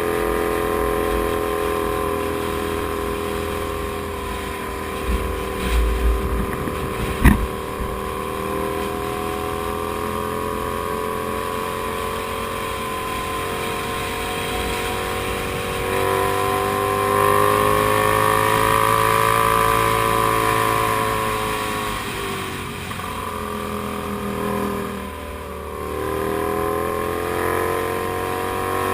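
Comet GTR250 motorcycle's V-twin engine running under way, its pitch holding fairly steady, climbing about sixteen seconds in, then dropping with a sharp dip around twenty-five seconds in before rising again. A few low thumps and a sharp knock come about six to seven seconds in.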